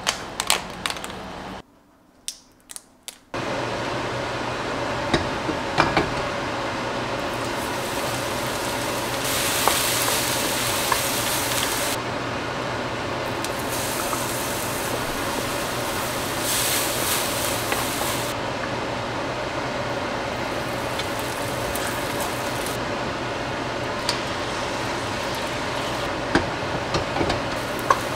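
Garlic, shallots and then egg sizzling in hot oil in a wok on a gas stove, with light clicks and scrapes of a wooden spatula. The sizzle grows brighter and louder twice, around ten seconds in and again around seventeen seconds in. A few sharp clicks come in the first seconds.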